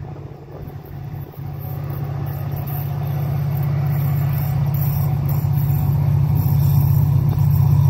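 Diesel train's engine running with a steady low drone, growing steadily louder as the train approaches.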